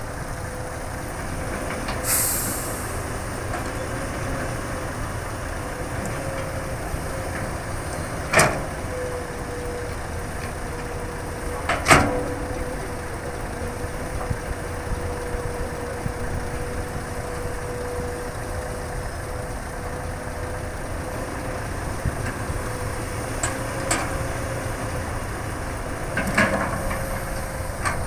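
A Hitachi hydraulic excavator running steadily under a continuous steady tone, with a short hiss about two seconds in. Two sharp knocks come about eight and twelve seconds in, and a few lighter clatters near the end.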